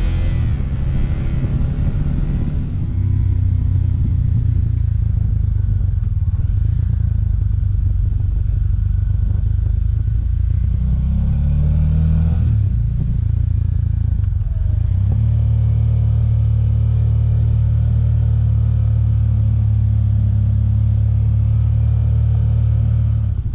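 Small Suzuki motorcycle engine running under way, with steady rushing noise over it. About halfway through, the revs rise and drop twice, like gear changes, then the engine settles into a steady, stronger cruise.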